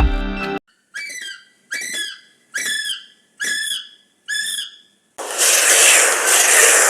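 A bird call repeated five times, each a short whistled note falling in pitch, a little under a second apart. About five seconds in, a loud, steady hiss starts and runs on.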